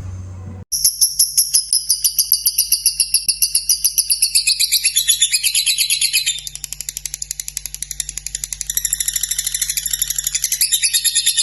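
Lovebird giving its long 'ngekek' song: a continuous rapid, high-pitched chattering trill of about eight pulses a second, starting abruptly under a second in and running on without a break.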